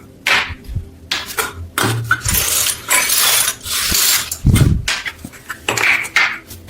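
Small metal parts clinking, knocking and scraping against hard surfaces, with a run of sharp clicks and a heavier thud about four and a half seconds in.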